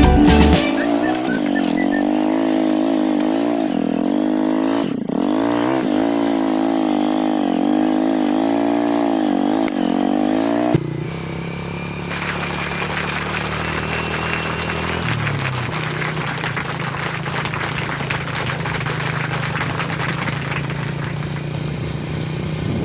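Motorcycle engine running with its pitch rising and falling repeatedly as the revs change, with one sharp dip and recovery about five seconds in. About eleven seconds in the sound changes abruptly to a steadier, lower engine drone.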